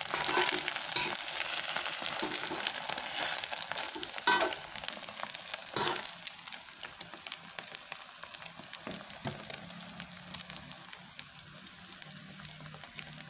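Egg omelette frying in oil in an aluminium wok, a steady sizzle with fine pops, just after being flipped. A metal spatula scrapes against the wok twice, about four and six seconds in, and the sizzle grows quieter in the second half.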